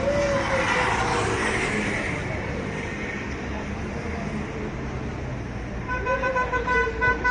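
Street traffic with vehicles passing. Near the end a vehicle horn sounds in a quick run of short beeps.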